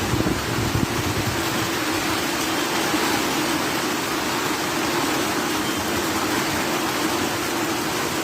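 Heavy rain falling steadily as a continuous hiss, with a steady low hum underneath.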